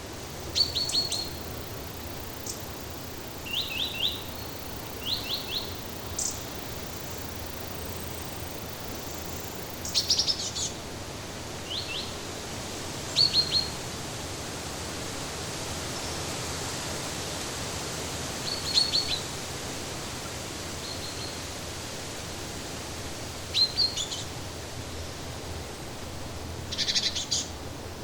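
Small birds giving short groups of quick, high chirps every few seconds over a steady hiss of background ambience.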